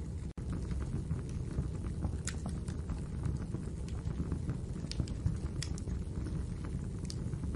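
Wood fire burning in a fireplace: a steady low rumble of flames with irregular sharp crackles and pops, a few each second. The sound cuts out for an instant just after the start.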